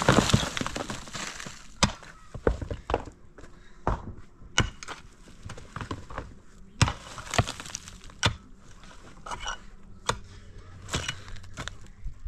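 A run of sharp, irregular knocks and cracks, roughly one or two a second, with a louder rough burst right at the start.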